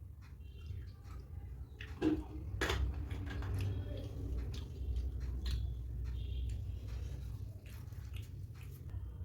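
Close-miked eating: wet chewing and squishy smacking of poori dipped in curry, with scattered clicks and a couple of sharper ones about two seconds in.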